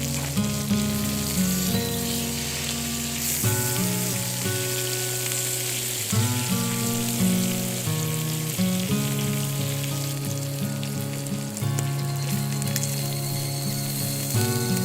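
Food sizzling as it fries in a hot pan, a steady fine crackling hiss that grows stronger about three seconds in, over background music with sustained changing notes.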